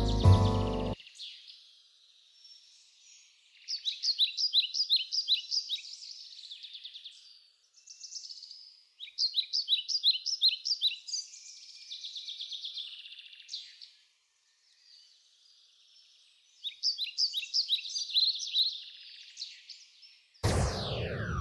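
Songbird singing: bursts of rapid high chirps, each a second or two long, repeated every few seconds with short quiet gaps. Piano music stops about a second in, and near the end a loud sound sweeps steeply down in pitch.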